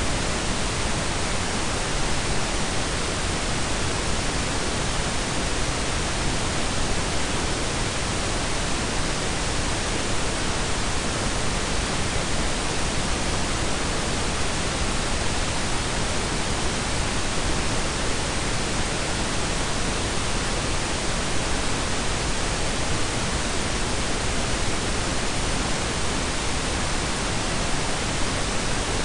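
Steady synthetic blend of pink and brown noise: an even, unchanging hiss with a deep rumbling low end.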